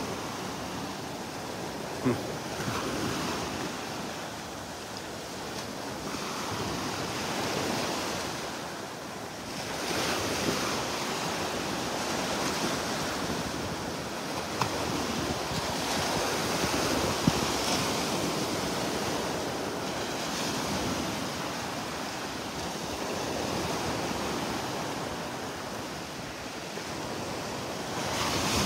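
Gulf of Mexico surf washing onto the beach, the wash swelling and easing every few seconds, with wind on the microphone. A few brief clicks stand out, one about two seconds in and two more past the middle.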